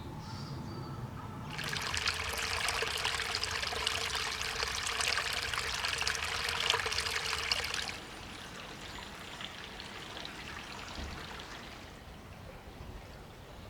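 Spring water pouring and trickling. A loud splashing pour starts suddenly about a second and a half in and cuts off abruptly at about eight seconds, leaving a softer trickle that fades out.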